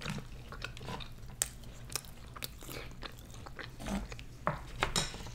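Close-miked eating sounds of two people chewing: wet mouth smacks and small clicks at irregular intervals, with wooden spoons scooping curry from a metal tray.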